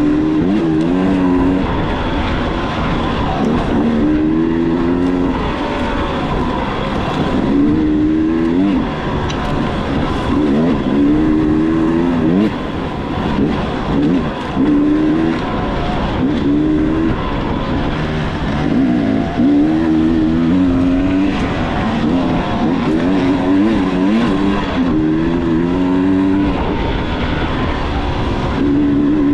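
Dirt bike engine revving up and down over and over as it is ridden, its pitch climbing and dropping every second or two.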